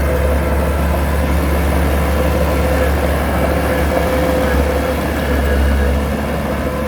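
Heavy diesel earthmoving machinery running steadily, a deep engine rumble with a thin steady whine above it.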